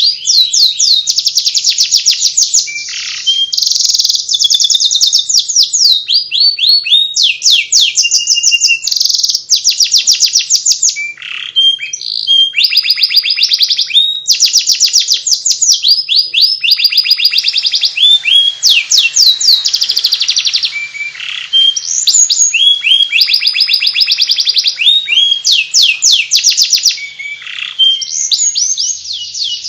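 Domestic canary singing its 'ngeriwik' twittering song: a nearly unbroken run of fast high trills and chattering phrases, each phrase a quick series of repeated notes, with only short breaks between them.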